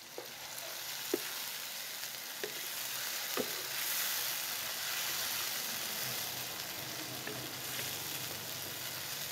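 Chopped tomatoes, green chillies and browned onions sizzling in hot oil in a nonstick wok while being stirred with a wooden spatula. A few light clicks of the spatula against the pan come in the first few seconds.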